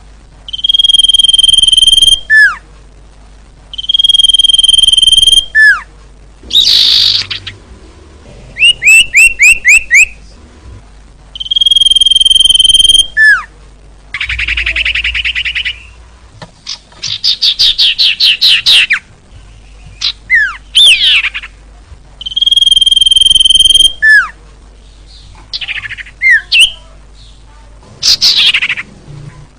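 Female common iora (cipoh) singing: a long, steady, high whistle that drops away in a falling slur at the end, repeated four times. Between the whistles come quick chattering and trilled phrases.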